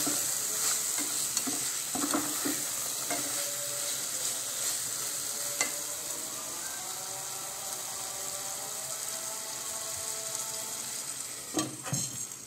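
Chicken pieces frying in oil and spice paste in a pan, sizzling steadily, with occasional stirring strokes. The meat is being browned dry without added water, cooking in its own released juices.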